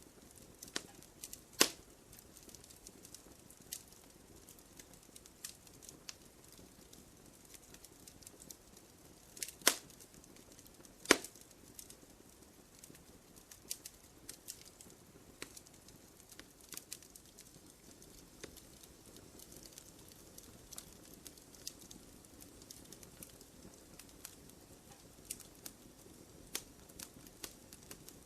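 Wood fire crackling in a fireplace: a steady low hiss with irregular small snaps, and three loud pops, one about two seconds in and two close together around ten and eleven seconds in.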